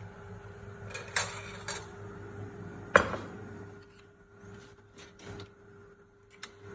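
Dishes and cutlery clattering in a dishwasher's racks: a cluster of clinks, one loud clunk about three seconds in, then lighter clinks near the end, over a steady low hum.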